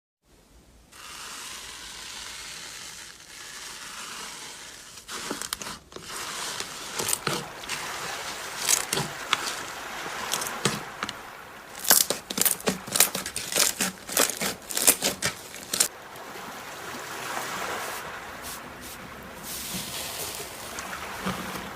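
Slime being squished and worked by hand, a soft crackling hiss broken by a dense run of sharp, wet pops and clicks through the middle.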